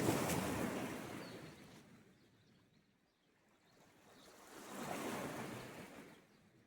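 Sea waves on the shore: one breaks suddenly and washes out, fading over a couple of seconds, then a second wave swells up a few seconds later and dies away.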